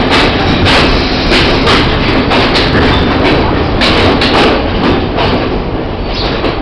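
Passenger train running, heard from the carriage window: a loud rumble of wheels on rails with quick, uneven clicks over the rail joints, getting quieter and sparser toward the end.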